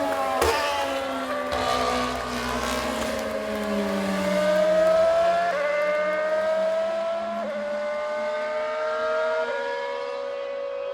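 Racing car engine accelerating hard through the gears: the pitch climbs steadily, then drops at each upshift, three shifts about two seconds apart, while a second car's lower note falls away early on. The sound dulls near the end as the car draws away.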